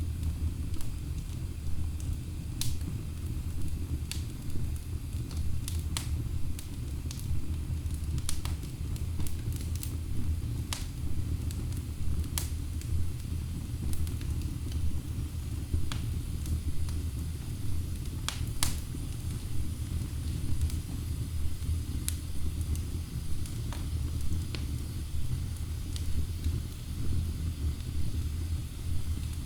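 Wood fire burning in a fireplace: a steady low rumble of the flames with irregular sharp crackles and pops from the logs, a few louder pops scattered through.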